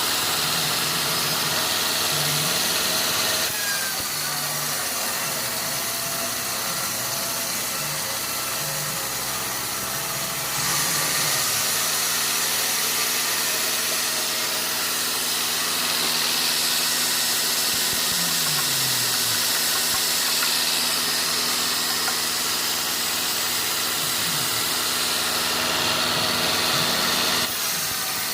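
Sawmill machinery running steadily, its engine note held under a hiss that steps down a few seconds in, back up about a third of the way through, and down again near the end.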